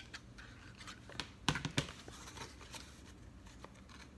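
Cardstock and a hot glue gun being handled on a work table: scattered small clicks, taps and paper rustles, with two sharper knocks close together about a second and a half in.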